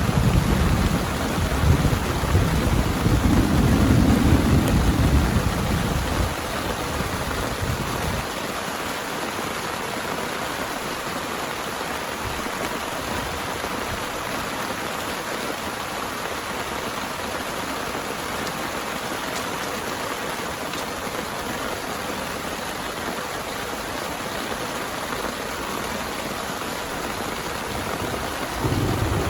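Heavy rain falling steadily, with a long rumble of thunder over the first several seconds that dies away, and another thunder rumble starting near the end.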